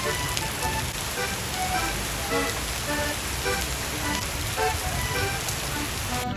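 Heavy rain pouring down steadily, with background music of short, light notes playing over it.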